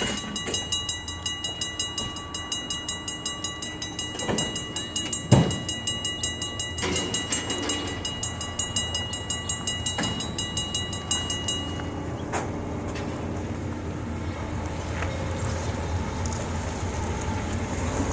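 Canadian Pacific freight train passing, its wheels on the rail giving a low rumble that grows stronger. A high, rapid ringing pulses about three times a second and stops about two-thirds of the way through. There is one sharp bang about a third of the way in.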